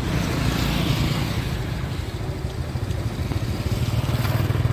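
Motorbike engine running steadily, with road noise around it.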